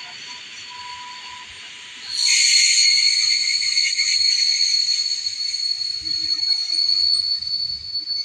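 Train at a railway station: a steady high-pitched squeal over hiss, which turns much louder suddenly about two seconds in and holds.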